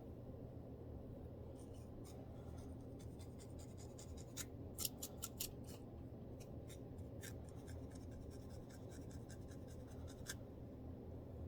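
Faint scraping and scratching strokes on a scalp as dandruff is scratched loose, in short quick ticks that are loudest in a cluster about five seconds in. A low steady hum runs underneath.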